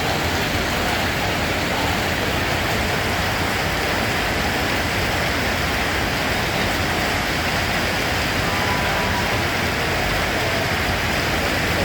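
Steady rain falling, an even, unbroken hiss without distinct drops or thunder.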